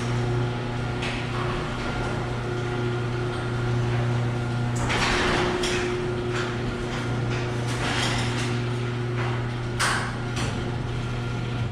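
Electric garage door opener running the door through a full travel, a steady motor hum with clatter from the door and rails, stopping abruptly at the end of travel. It is a test run after the door's lift cable was rewound onto its drum, and the door runs without stopping.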